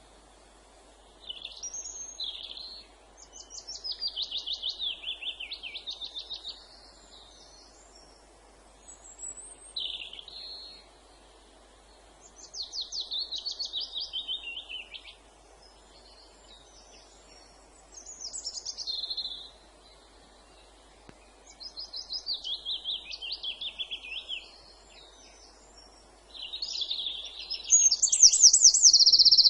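A songbird singing repeated short phrases of rapid trilled notes, several falling in pitch, with pauses of a few seconds between them; the last phrase, near the end, is the loudest. A faint steady hiss of woodland background lies underneath.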